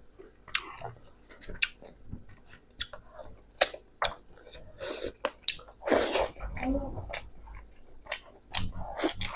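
Close-miked chewing of pork: wet mouth clicks and smacks coming irregularly, with a longer breathy rush about six seconds in.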